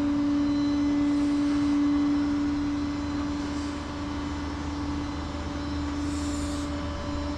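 Vehicle engine running steadily, a constant droning hum over a low rumble.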